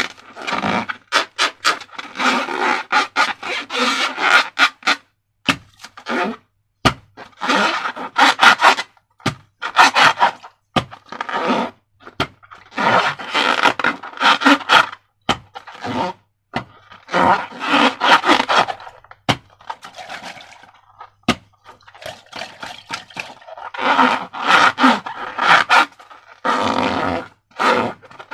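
Sticky slime being squeezed and worked by hand, in repeated wet, crackling squelches of a second or two each with short pauses between.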